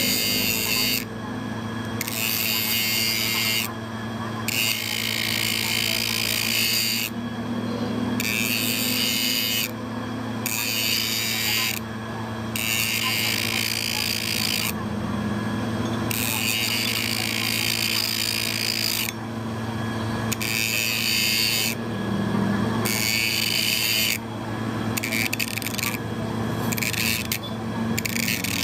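Power tool working metal, its motor humming steadily. The high hissing cutting noise comes in stretches of a second or three, with short breaks between them.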